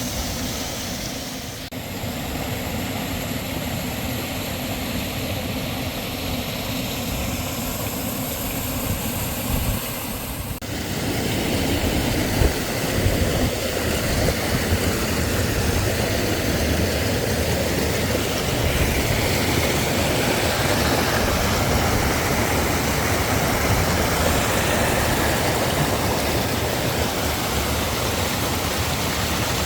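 Steady rush of a small waterfall and stream with a low rumble underneath. The sound shifts abruptly about two seconds in and again about ten seconds in, growing louder and deeper after the second change.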